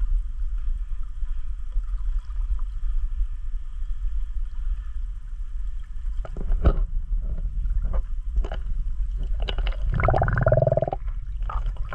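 Steady low rumble of wind buffeting the microphone over a faint rush of river water. From about halfway there is a run of short knocks, and near the end a brief grunt-like voice.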